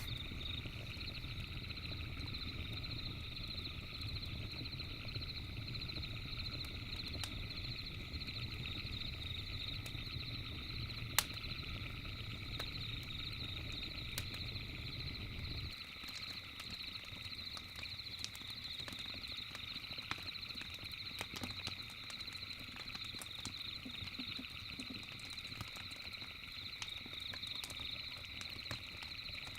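Campfire crackling with scattered sharp pops, one louder pop about a third of the way in, over a steady high, fast-pulsing chirring chorus of night animals. A low rumble underneath drops away about halfway through.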